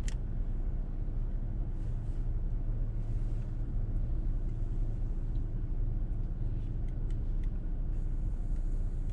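Car engine idling, heard from inside the cabin as a steady low rumble, with one sharp click at the start.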